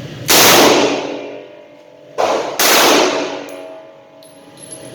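Three handgun shots: one about a third of a second in, then two close together a little past two seconds, each ringing out with a long echoing decay.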